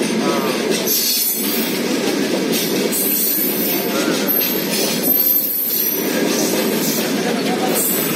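Indian Railways goods train of covered wagons rolling past, a loud steady rumble of steel wheels on rail with knocks from the wheels. A thin, high wheel squeal rises and falls a few times through the middle.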